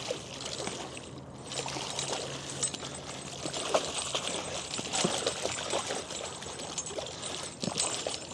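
Water trickling and splashing in many small irregular splashes as a hooked sturgeon is brought in at the surface.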